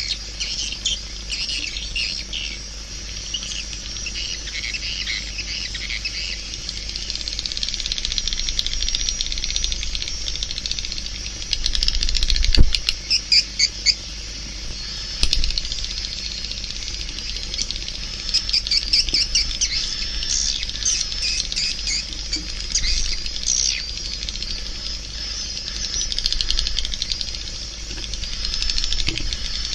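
Swiftlets twittering: a dense, continuous stream of high chirps, with a loud run of rapid clicks about twelve seconds in.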